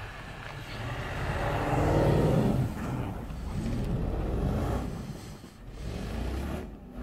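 Mercedes sedan engines revving hard while pushing through deep snow; the revs rise and fall, loudest about two seconds in, dip briefly near the end, then surge again.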